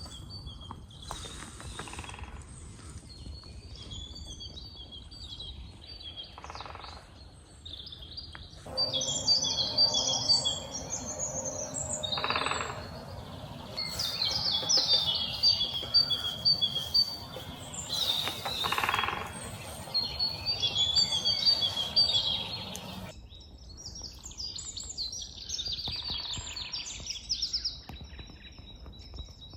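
Several songbirds chirping and singing over one another in a forest, with short phrases coming thickest through the middle, over a steady low background noise and a couple of brief noisy rustles.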